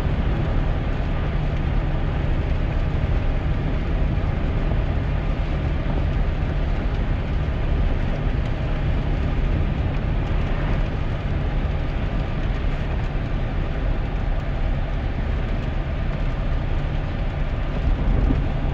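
Steady cab noise of a 2001 GMC Sierra pickup driving in heavy rain: a low rumble of engine and tyres under an even hiss.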